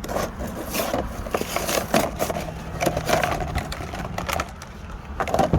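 Cardboard and plastic toy packaging being torn and pried open, with irregular crackling and scraping, over a low steady hum.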